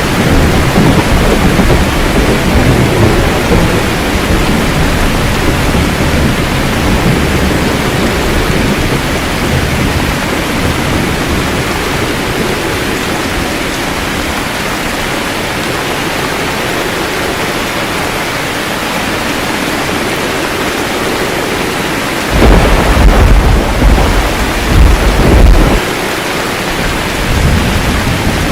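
Steady heavy rain with thunder: a low rolling rumble over the first several seconds, then a loud clap about 22 seconds in, followed by a second burst a couple of seconds later.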